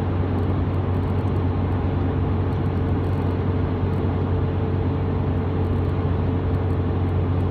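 Steady road and engine noise of a truck cruising at highway speed, heard from inside the cab: an even rumble with a low hum.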